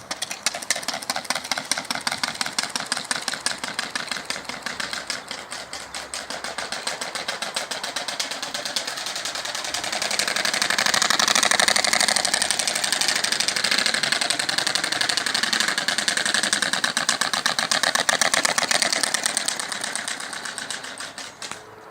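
Noisemakers clipped into a kid's bike wheel, flapping against the spokes as the wheel turns: a fast, even rattle of clicks that sounds like a small motorcycle engine. It grows louder toward the middle and fades near the end.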